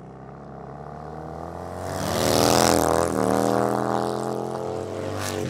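Motorcycle engine running, building to its loudest about two seconds in as its pitch shifts, then easing off a little.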